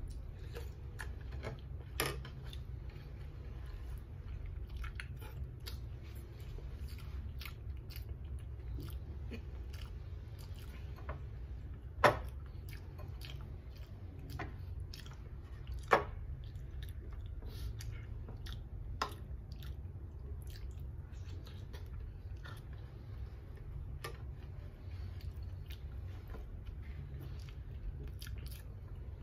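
Close-up mouth sounds of a person chewing fried fish and rice, a steady stream of small wet clicks and smacks, over a low steady hum. A few sharper clicks stand out, the loudest about a third and half way through.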